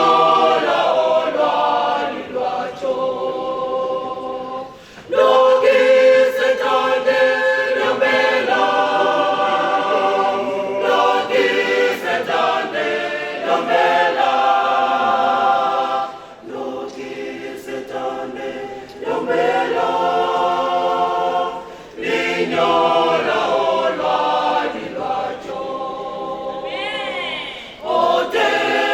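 A choir singing a cappella in long phrases, with brief breaks between them.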